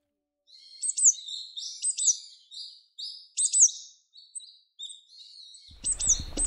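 A small bird chirping: a quick series of high notes, with sharp downward-sweeping calls and short buzzy notes. Outdoor background noise comes in near the end.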